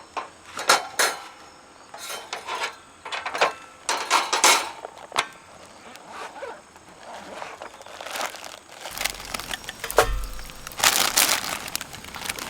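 Irregular rustling, crinkling and light knocks of camp gear being handled, with a few dull low thumps from about nine seconds in.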